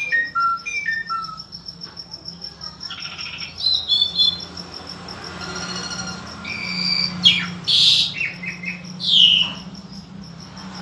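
A songbird singing: a short run of clear whistled notes stepping down in pitch at the start, then a varied string of chirps and buzzy, rasping notes.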